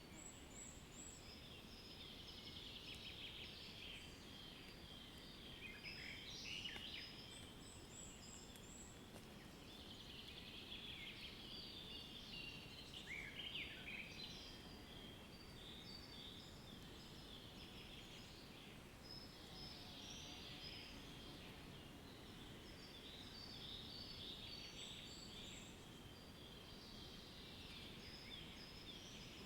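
Faint chorus of many birds chirping and trilling, with short repeated high notes, over a low, steady background hiss.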